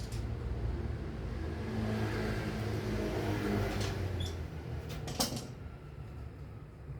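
A motor vehicle passing by, its engine and road noise swelling and then fading over about four seconds, followed by a sharp knock about five seconds in.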